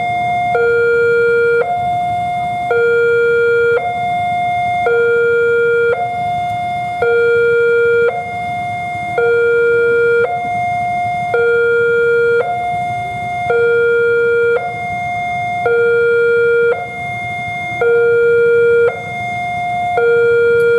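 Railway level-crossing warning alarm sounding, a high and a low tone alternating evenly, each held about a second; it signals that a train is approaching the crossing.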